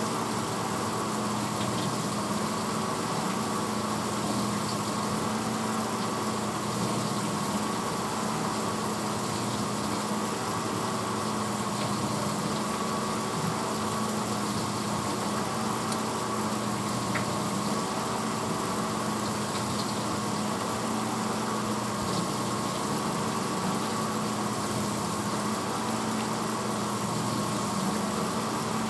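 1986 Hotpoint dishwasher running mid-cycle: a steady motor hum over an even hiss.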